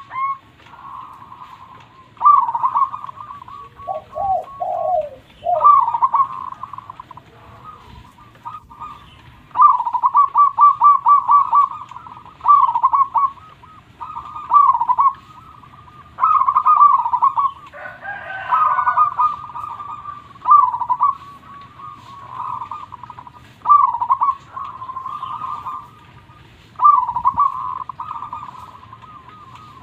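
Zebra dove (perkutut) cooing: its fast stuttering phrases repeat every couple of seconds. A lower run of notes comes about four seconds in, and a brief different call about two-thirds of the way through.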